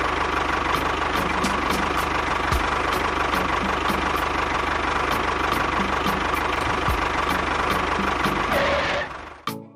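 An engine-like machine running steadily with a regular ticking, then stopping suddenly near the end.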